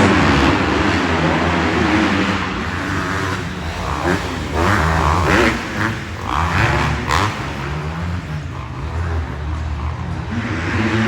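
Several dirt-bike engines running and revving on an arenacross track, their pitch rising and falling as riders work the throttle.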